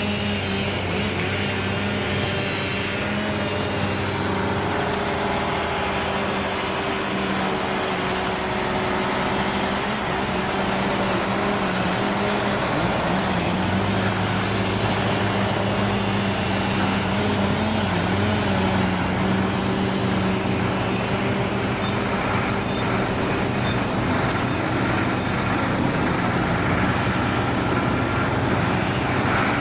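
Heavy diesel engine of an old truck or construction machine running steadily. The low engine note shifts slightly about halfway through.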